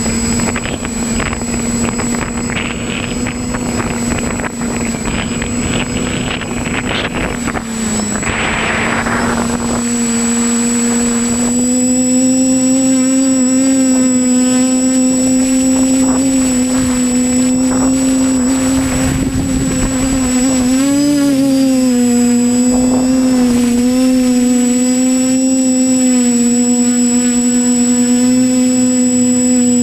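Quadcopter's electric motors and propellers buzzing in a steady, loud hum, picked up by the onboard GoPro. Wind rushes over the microphone for about the first ten seconds, then the buzz comes through clearer, its pitch wavering briefly about two-thirds of the way through as the craft manoeuvres.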